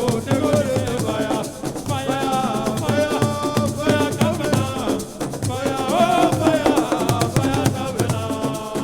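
Senegalese assiko band music: driving percussion with shakers rattling, and a pitched melody line carrying over the rhythm.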